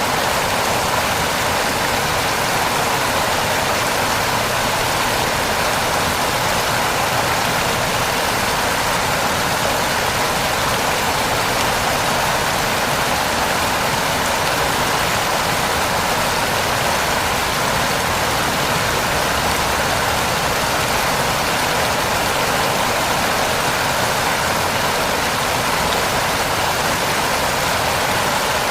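Heavy rain falling steadily, an even, unbroken hiss with no distinct drops or changes.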